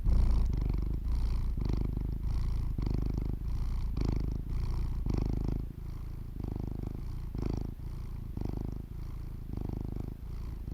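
A cat purring in a steady pulse, about two strokes a second.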